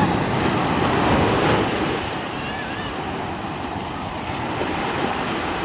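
Ocean surf washing steadily onto the beach, with some wind on the microphone; a little louder in the first two seconds.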